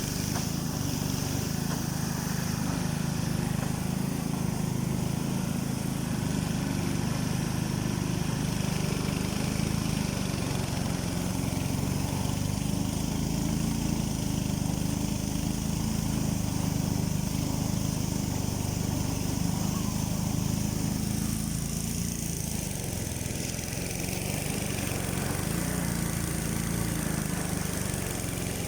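An engine, the setenteng, running steadily at a constant speed: an unchanging low drone with a faint hiss above it.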